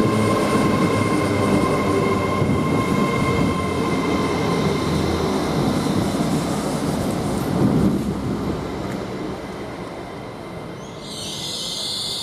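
Class 807 electric train pulling into the platform, its brakes squealing with steady high tones over the rumble of the wheels as it slows and the sound fades. About eleven seconds in a hiss starts.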